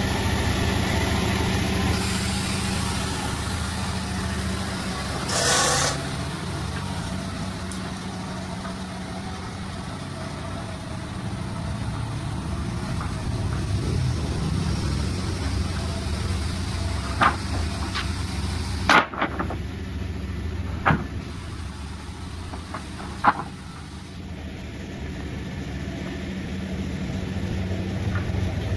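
Sawmill engine running steadily, with a brief hissing burst about five seconds in and a few sharp knocks in the second half.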